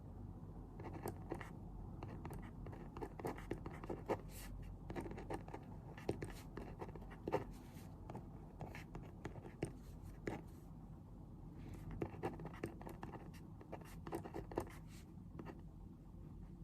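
Pen writing on paper at a desk: irregular short scratches and taps, with quieter pauses, over a low steady room hum.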